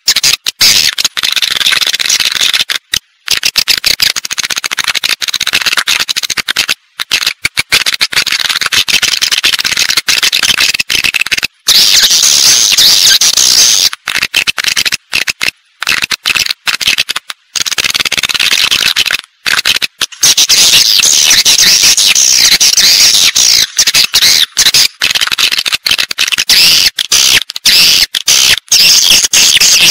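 Swiftlets twittering: a dense, high-pitched chatter of many birds, broken every second or two by brief silences. It is a lure call played in swiftlet houses to draw the birds in to roost and nest.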